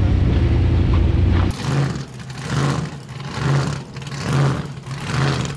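A car's engine idling close by with a deep, steady rumble. About a second and a half in it cuts off abruptly, and a quieter rumble follows that swells and fades about once a second.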